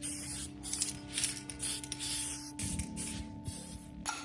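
Aerosol spray can hissing in a string of short bursts, over background music with held notes.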